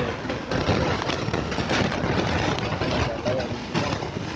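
A vehicle engine running steadily under a dense, even wash of noise.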